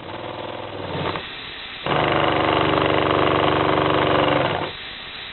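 Model three-cylinder steam engine running on compressed air: a short spell of running that picks up speed near the start, then about two and a half seconds of fast, steady running that stops suddenly. A steady hiss of air fills the gaps.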